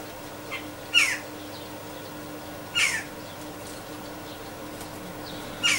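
A bird calling three times, about two seconds apart, each call short, harsh and falling in pitch, over a faint steady hum.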